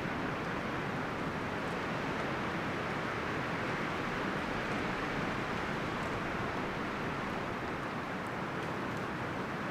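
Wind blowing steadily through forest trees, rustling the leaves and branches in an even hiss.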